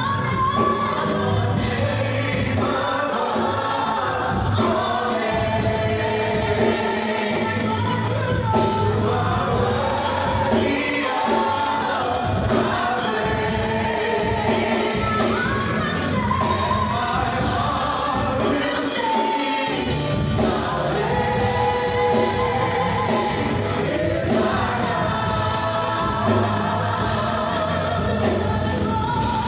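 Gospel choir singing with a full band, the beat steady throughout.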